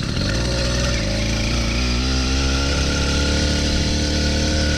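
80cc two-stroke engine bolted to a mountain bike, running steadily under throttle as the bike is ridden, its pitch holding fairly even with a brief wobble about two seconds in.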